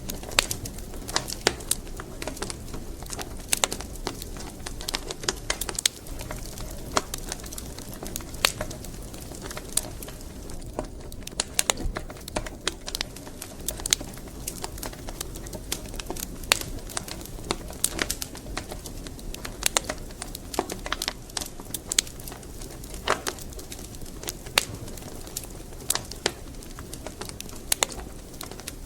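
Wood fire crackling in a fireplace: irregular sharp pops and snaps, several a second, over a steady low rush of burning logs.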